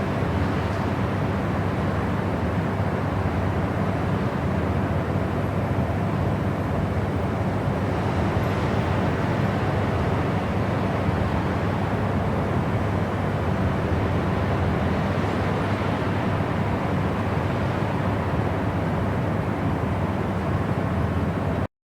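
Steady, low, rumbling noise from a white-noise track, heavier in the bass than true white noise, with no rhythm or events. It cuts out briefly near the end.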